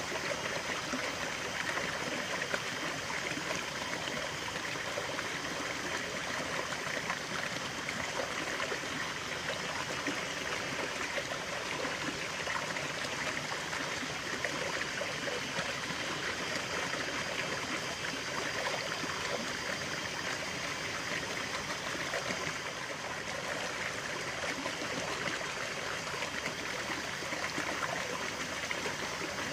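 Running water from a natural stream, a steady rush and trickle.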